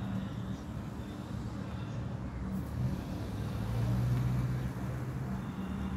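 Street traffic: a motor vehicle's engine running with a steady low hum, growing louder about four seconds in.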